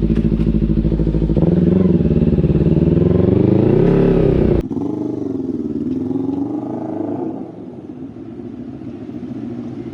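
Kawasaki Z300 parallel-twin motorcycle engine revving up as the bike accelerates, its pitch rising for about four seconds and then cutting off sharply. The revs climb and fall once more, then it runs quieter near the end.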